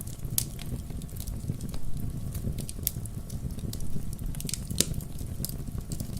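Wood logs burning in a fireplace: irregular sharp crackles and pops over a steady low rumble of the flames.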